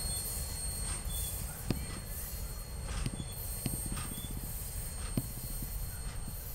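Rear cars and caboose of a train rolling slowly past and away, with a low rumble of wheels on the rails and three sharp clacks, each a second and a half or so apart.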